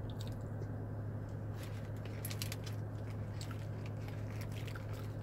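Someone chewing french fries with small wet mouth clicks and smacks, scattered through the second half, over a steady low hum.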